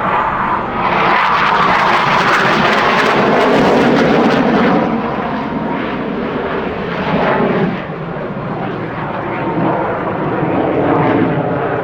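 Alenia Aermacchi M-346 Master twin-turbofan jet trainer flying a display pass, its jet noise loudest in the first few seconds, easing, then swelling again near the end.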